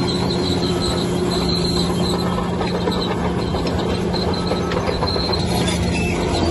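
Bulldozer running under steady load, its steel crawler tracks squealing and clanking over a constant diesel engine drone.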